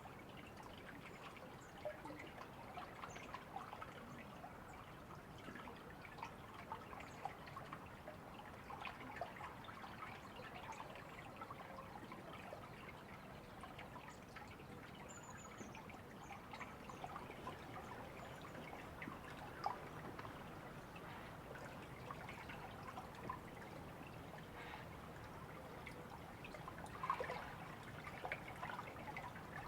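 A small stream trickling steadily, with many small splashes and drips over a soft rushing.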